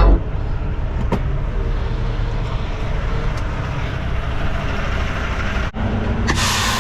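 Semi truck's diesel engine running with a steady low rumble heard from the cab. Near the end a short burst of air hiss from the air brakes.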